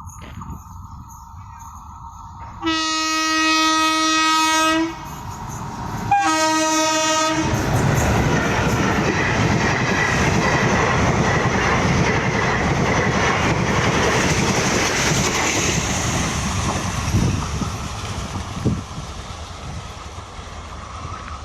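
Train horn sounds twice, a long blast of about two seconds and then a shorter one about a second later. Then comes the loud, steady rush and rumble of the train running on the track, easing off a little near the end.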